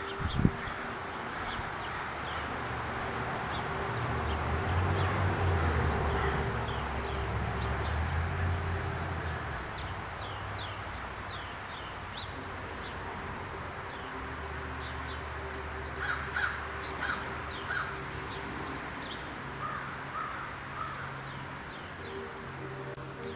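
Wild birds calling outdoors: many short, falling chirps repeat throughout, with a run of harsher, lower calls about two-thirds of the way in. A low rumble swells and fades in the first half, and a single sharp knock comes just after the start.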